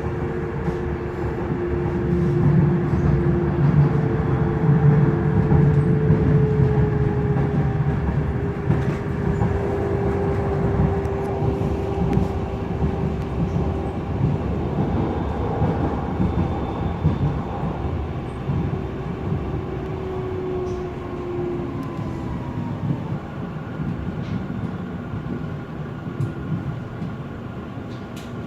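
Frankfurt U-Bahn light-rail train running between stations: a low rumble of wheels on rail, with a motor whine whose pitch slowly falls. It is loudest early on and gradually eases.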